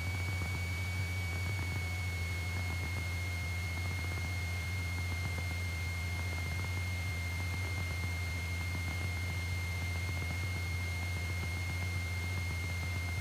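Cessna 172 engine running steadily at low power, heard through the aircraft intercom as a steady low drone under hiss, with a thin, steady high-pitched whine throughout.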